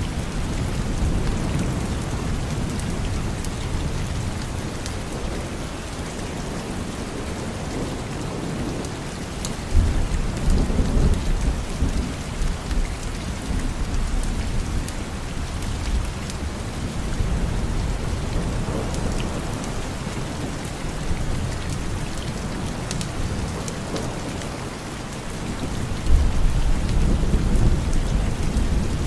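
Steady heavy rain, with two low rolls of thunder, one about a third of the way in and another near the end. Scattered sharp crackles from a wood fire sound over the rain.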